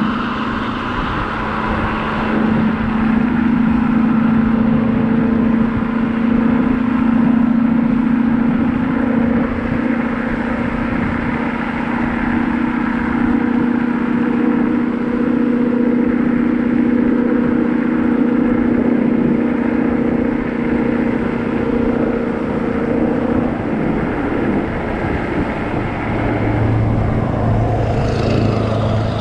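Kaabo Wolf GT Pro electric scooter being ridden: a steady motor whine under loud rushing wind and road noise. The whine drops away about 23 seconds in, and a lower hum takes over near the end.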